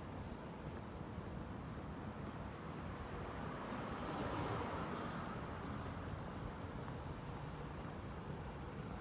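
Steady outdoor background noise with faint short high chirps repeating about twice a second, and a broad swell of noise about halfway through.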